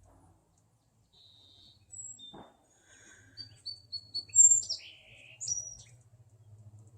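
Young woodpeckers chattering: short, high chirps and a quick run of repeated notes, with the loudest, falling calls a little past the middle.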